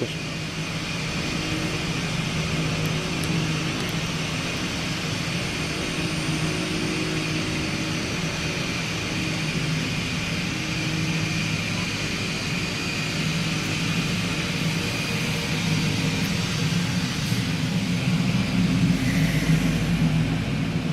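Small airplane's engine running steadily on the ground ahead of takeoff: a continuous drone with a faint high whine, growing a little louder near the end.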